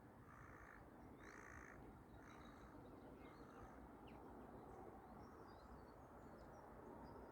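A bird calling faintly three times, about a second apart, in the first two and a half seconds, followed by faint high chirps of small birds.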